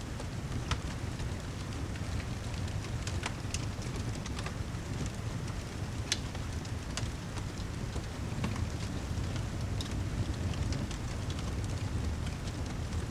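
Steady rain ambience mixed with a fireplace crackling: irregular sharp pops and snaps, a dozen or so, over a steady low rumble.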